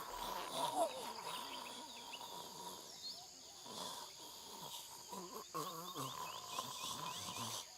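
Faint outdoor nature ambience: many short, quick bird chirps over a steady insect-like hum, with light low rustling.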